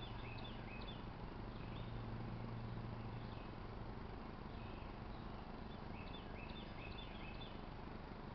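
Small birds chirping in two short bursts of quick high notes, one at the start and one about five seconds in, over a steady background hiss. A low hum runs through the first few seconds.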